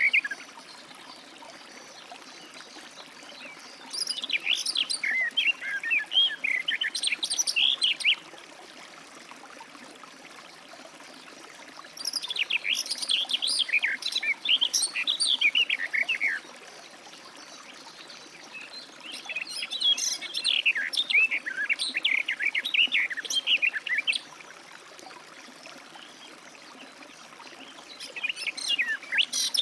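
Garden warbler singing its rapid, rich warbling song. The song comes in phrases of about four seconds, each followed by a pause of several seconds, and a new phrase begins near the end.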